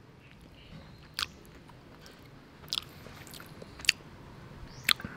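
A person chewing soft, overripe durian flesh, with about four short, wet mouth smacks spaced about a second apart.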